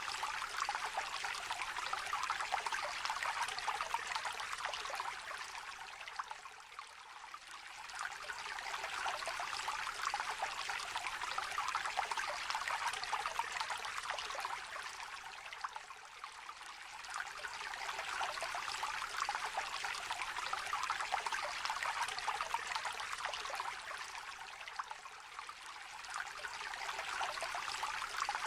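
A small shallow stream trickling and babbling over stones in a steady, gentle flow. It eases off briefly about every nine seconds and then comes back.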